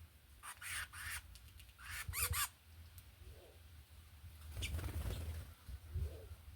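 Wild birds calling: a few short, harsh, squeaky calls in quick groups, with faint low notes between them.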